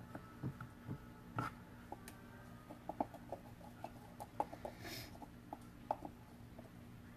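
Soft, irregular taps and scrapes of a utensil against a baking dish of brownie batter, over a faint steady hum.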